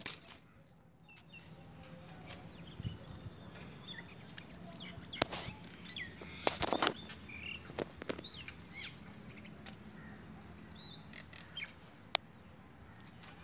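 Small birds chirping in short scattered calls, with occasional sharp clicks and crackles of dry leaf litter and twigs.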